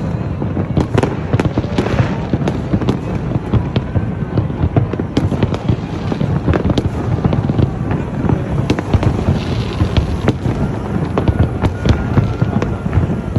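Large fireworks display: a dense, unbroken run of bangs and crackles over a heavy rumble.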